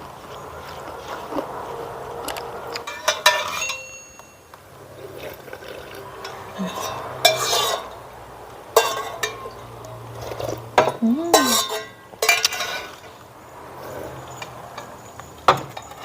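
Cutlery clinking and scraping against dishes during a meal: a string of sharp, irregular clicks.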